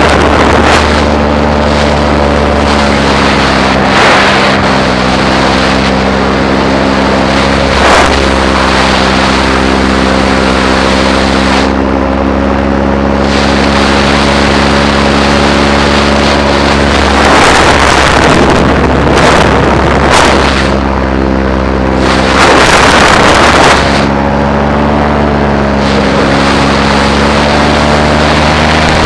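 Paramotor's two-stroke engine and propeller running at a steady throttle, with gusts of wind buffeting the microphone several times.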